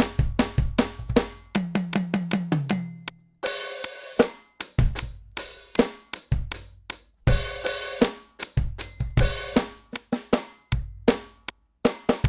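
NUX DM-8 electronic drum kit played in a steady groove of kick, snare and hi-hat. About a second and a half in comes a quick tom fill stepping down in pitch. Cymbal crashes ring out at about three and a half and seven seconds.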